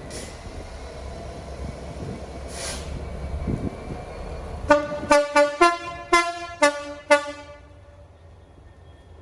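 Class 66 diesel locomotive sounding its two-tone horn in a quick run of about seven short blasts, switching between the high and low tones, after a few seconds of low engine rumble.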